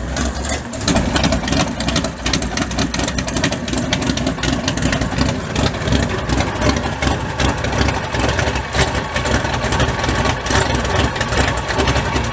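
The bog truck's big-block Chevy V8 running, which the owner puts down to fouled-out spark plugs that need replacing.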